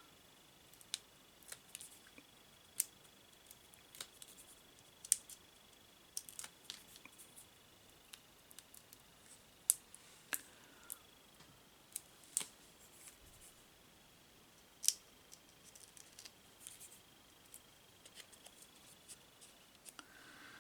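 Faint, scattered sharp clicks and snips of scissors and paper craft materials being handled, coming irregularly every second or two, over a faint steady high whine.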